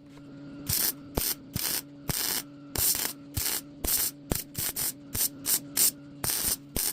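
Welder laying a run of short spot welds: about fifteen brief bursts of crackling hiss at uneven intervals, over a steady low hum.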